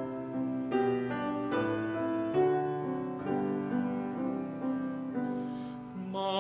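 Piano accompaniment playing a short interlude of held notes and chords between the sung phrases of a sacred solo song.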